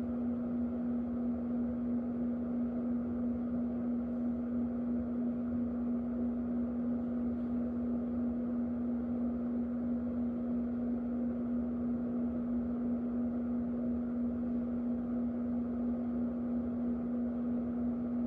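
Electric fan running steadily: an even rush of air with a strong, unchanging motor hum.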